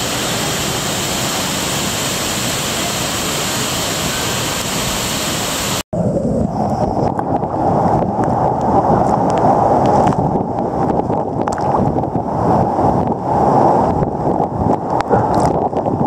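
Waterfall rushing in a steady, full roar. About six seconds in it cuts off abruptly, and a duller, lower rushing noise with faint scattered clicks takes over.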